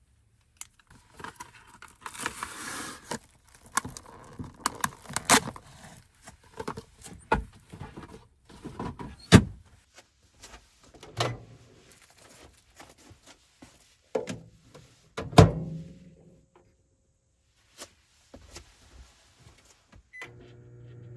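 Objects being handled and set down: a run of clicks, rustles and knocks, with two louder thumps about nine and fifteen seconds in.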